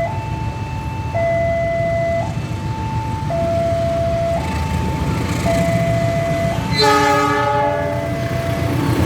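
Level-crossing warning alarm alternating between a high and a low tone, each held about a second. About seven seconds in, a train horn sounds for about a second over it, with a steady low rumble underneath.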